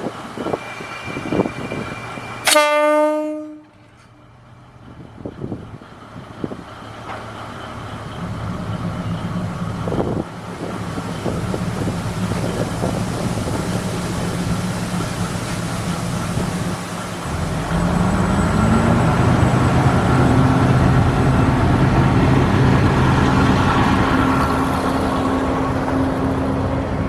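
Japanese diesel railcar departing: one short horn blast a couple of seconds in, then the diesel engine running and building up. About two-thirds of the way through, the engine revs up with a rising pitch and grows louder as the railcar pulls away under power.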